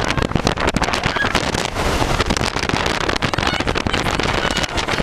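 Strong wind buffeting the microphone on the open deck of a moving catamaran: a loud, crackling rush with a heavy low rumble.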